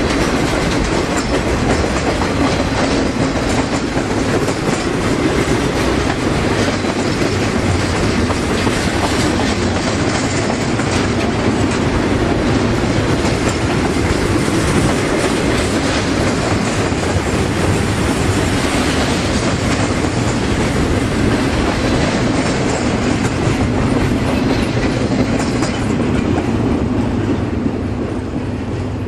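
Freight train cars rolling past close by, wheels clacking over the rail joints in a steady, loud rumble that eases slightly near the end.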